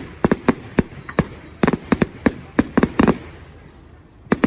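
Fireworks display: a rapid, irregular string of sharp bangs, the loudest about three seconds in, then a lull of about a second before more bangs near the end.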